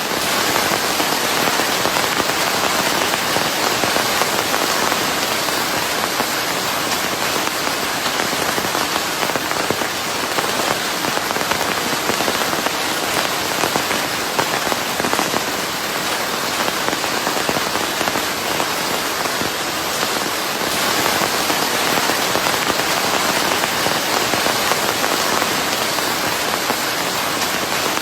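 Steady rain falling on a surface, dense pattering drops blended into an even hiss of rain and white noise.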